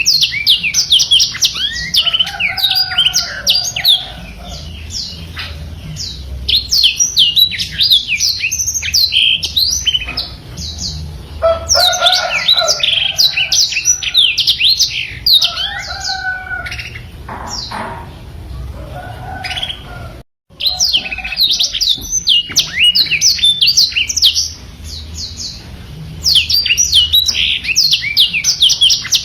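Blackthroat (black-throated canary) singing long, fast rolling phrases of rapid high twittering notes, with short pauses between phrases. The sound drops out briefly about two-thirds of the way through.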